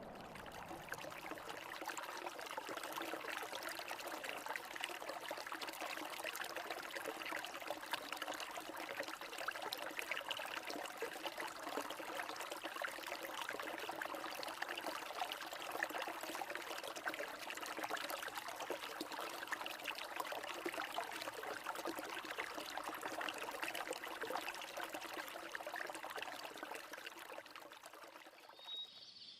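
Water flowing and trickling in a steady stream, fading out near the end.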